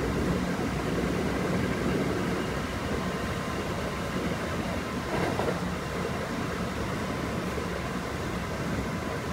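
Running sound inside the passenger cabin of a Kintetsu 5800 series electric train at speed: a steady rumble of wheels on rail with a faint steady hum. A brief knock comes about five seconds in.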